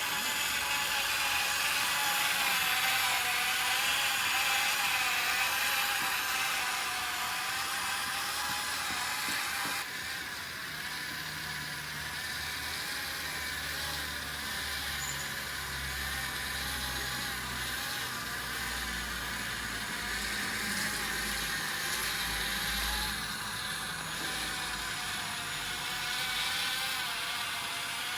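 Radio-controlled construction models' small electric motors and gearing whining steadily, the whine shifting abruptly about ten seconds in, with a low rumble under it later on.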